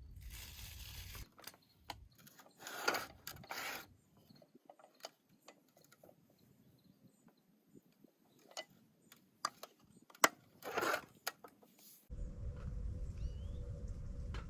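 Objects being handled close by: scattered sharp clicks and knocks with two short rustling bursts, one about three seconds in and one near eleven seconds. Near the end a steady low rumble of outdoor ambience comes in.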